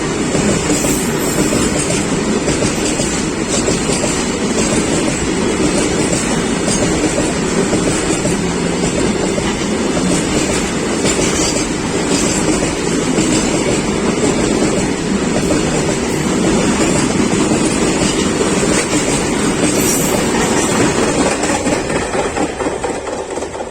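A freight train's rake of BCNA covered wagons rolling past at speed, the wheels clattering steadily over the rail joints in a loud, continuous rumble that begins to fade near the end.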